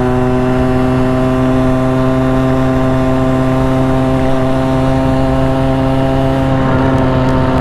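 Motorcycle engine running at a steady cruising speed, its pitch holding nearly level with a slight dip near the end. Picked up by the rider's helmet-mounted lavalier mic.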